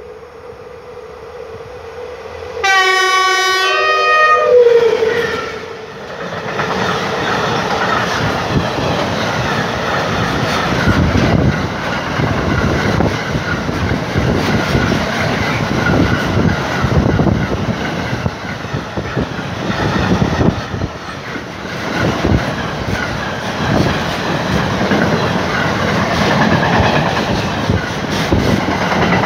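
The ET22 electric freight locomotive sounds one long horn blast about three seconds in, the Rp1 'attention' warning, its pitch sagging as it ends. Then the locomotive and its train of car-carrier wagons pass close by in a loud, steady rumble, with the wheels clattering over the rail joints.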